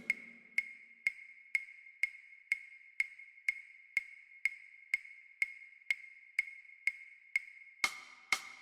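Metronome clicking steadily, about two clicks a second, while the snare drum rests. Near the end the snare drum comes back in, striking in time with the clicks.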